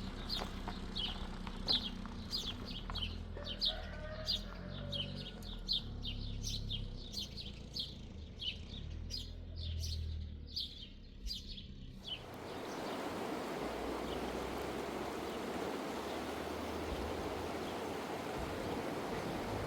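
A small bird chirping over and over, about two chirps a second, above a low rumble. About twelve seconds in the chirping stops abruptly and a steady rushing noise takes over.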